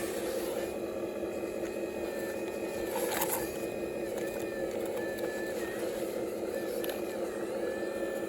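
Radio-controlled model construction machine's electric motors running steadily with a hum. A thin whine above it wavers and dips in pitch. There is a short clatter about three seconds in.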